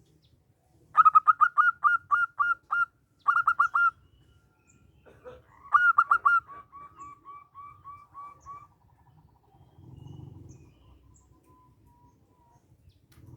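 Zebra dove (perkutut) singing: three bursts of quick staccato notes, the last trailing off into a softer, fading run of notes.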